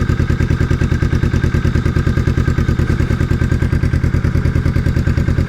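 Kawasaki Vulcan S 649 cc parallel-twin running at a steady idle through a Musarri Street Series GP stainless full exhaust, with an even, regular exhaust pulse.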